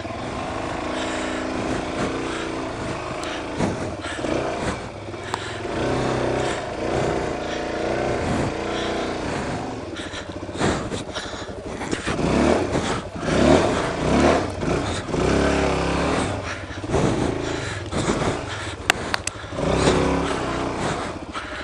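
Suzuki DR-Z400 single-cylinder four-stroke engine on a dualsport motorcycle, revving up and down under load on a rocky trail climb. About halfway through, knocks and clatter from the bike over rocks join in.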